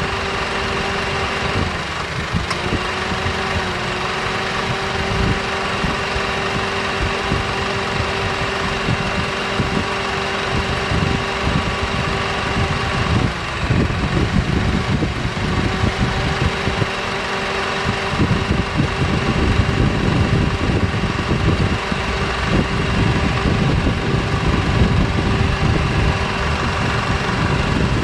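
2009 Honda CR-V's 2.0-litre four-cylinder engine idling while the air-conditioning compressor clutch cuts in and out, with the engine note shifting about 2 seconds in and again about 13 seconds in. The compressor is cycling on and off regardless of outside conditions, a fault the owner cannot identify.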